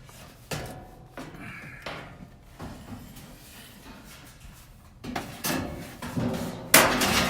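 Parts being handled inside a dryer cabinet: a few light knocks, then louder scraping and clattering, with one sharp bang near the end.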